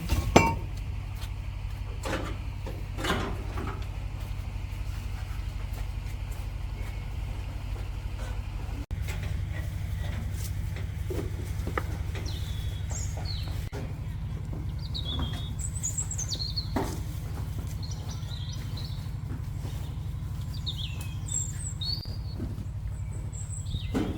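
Birds chirping in short, high calls through the second half, over a steady low rumble; a few sharp knocks in the first few seconds.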